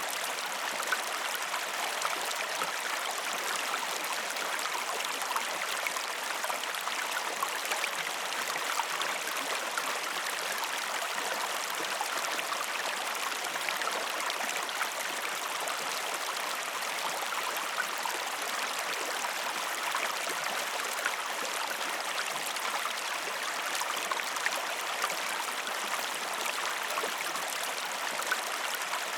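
Steady flowing water of a stream, with many small splashes and drips ticking through the even rush.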